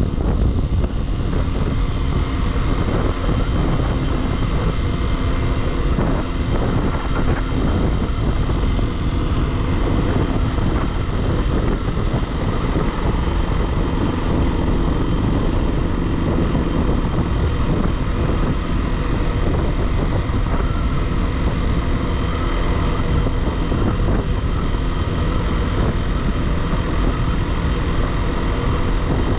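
Single-cylinder motorcycle engine running at steady cruising revs under way, its drone mixed with steady wind and road noise.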